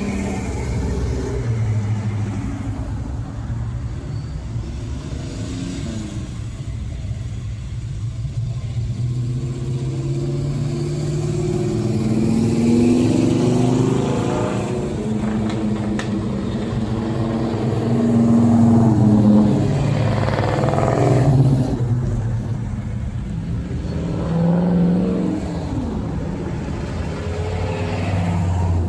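Car engines running, with several swells where an engine revs up and then falls away, the loudest about halfway through and again near the end.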